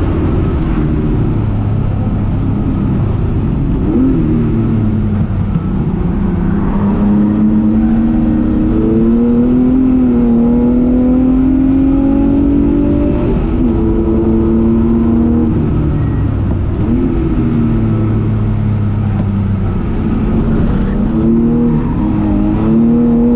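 Jaguar XJS race car's engine heard from inside the cabin, running hard under full acceleration. Its note climbs and then drops at each gear change, several times over.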